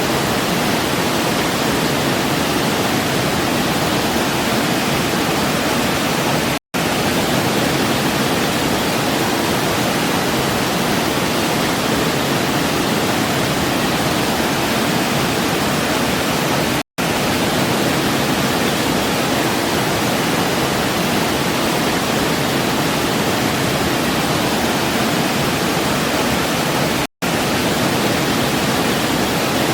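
Waterfall: a steady, even noise of falling water, broken by three very short dropouts to silence about ten seconds apart.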